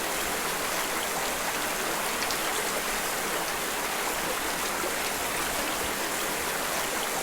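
Steady rainfall, an even hiss of falling water with faint scattered drop ticks.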